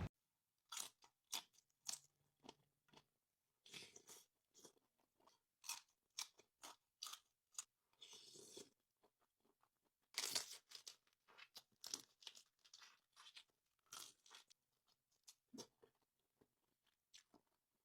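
Crunchy food being bitten and chewed close to the microphone: many short, sharp crunches at an irregular pace, with brief quiet gaps between bites.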